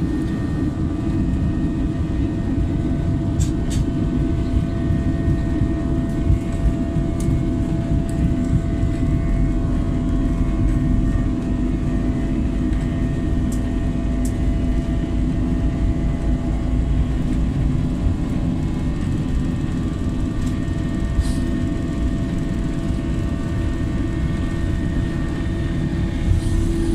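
Airbus A321 cabin noise during takeoff: a steady jet-engine drone over a heavy low rumble, with a few light clicks from the cabin.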